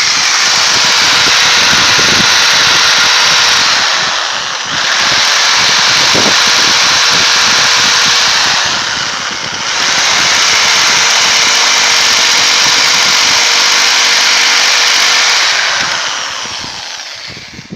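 Electric drill running at full speed with its bit or chuck held against the rebar truss of a concrete U-block beam, vibrating the fresh concrete to shake out trapped air. The motor dips briefly twice, about four and a half and nine and a half seconds in, and winds down near the end.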